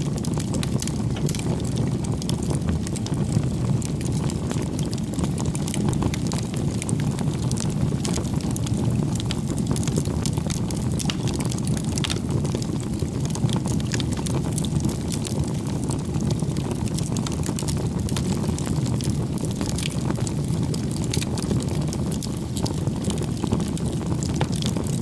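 Campfire burning: a steady low rumble of the flames with frequent small crackles and pops from the burning wood.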